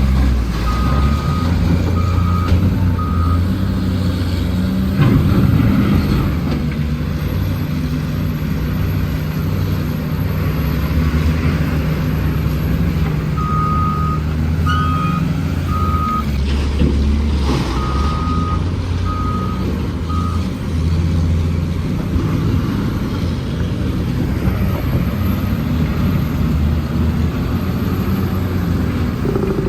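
Heavy truck engine running steadily, with a reversing alarm beeping in three sets of three short beeps.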